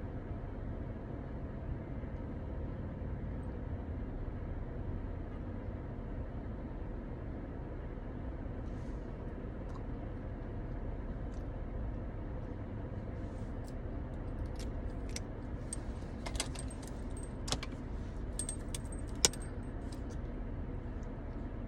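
A steady low rumble with a run of light, sharp clicks and jingles in the second half, the loudest a single click near the end.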